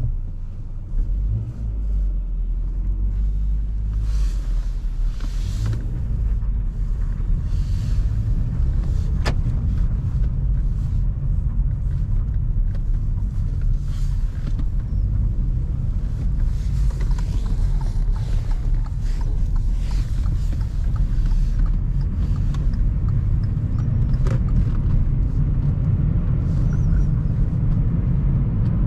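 A car driving, with a steady low rumble of engine and road noise and a few faint knocks from bumps.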